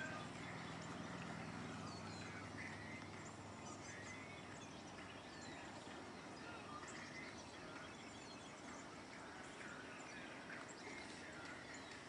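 Birds chirping and calling, with many short chirps and quick downward whistles over a faint steady background hiss.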